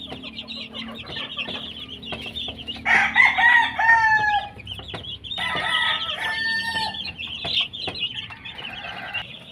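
Gamefowl chicks peeping continuously, while roosters crow twice, about three seconds in and again around six seconds.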